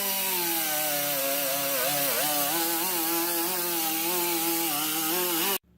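Handheld electric power tool with an abrasive Scotch-Brite pad running against a steel part. Its motor pitch sags and wavers as it is pressed into the work, over a hiss of rubbing. The sound cuts off abruptly near the end.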